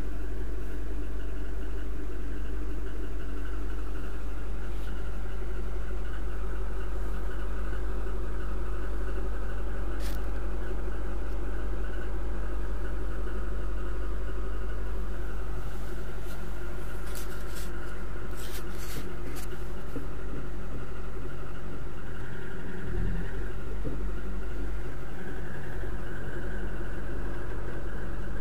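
Lada Kalina's engine idling steadily shortly after a cold start in hard frost, heard from inside the cabin. The idle note shifts slightly about two-thirds of the way through, and a few light clicks sound over it.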